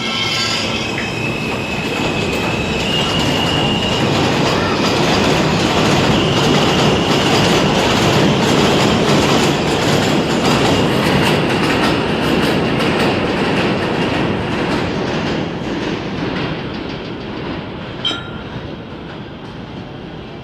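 R160A-2 subway train running through the station: traction motors whining as it gets under way, wheels clacking over the rail joints with some squeal. The noise builds for several seconds, then fades as the cars pass, with one sharp click near the end.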